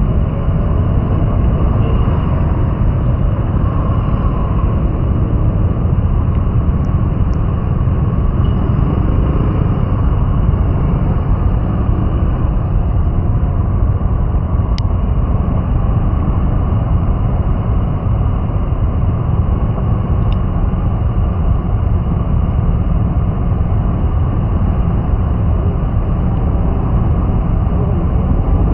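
Steady low road rumble of a vehicle driving on rain-wet city streets, with a hiss of tyres and rain over it. A single short click about halfway through.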